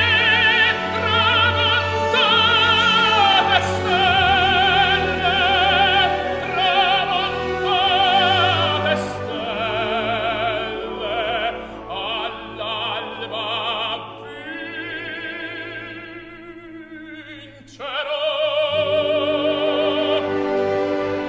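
Operatic solo voice singing with wide vibrato over an orchestra; the music quietens a little past the middle, then a new full phrase enters near the end.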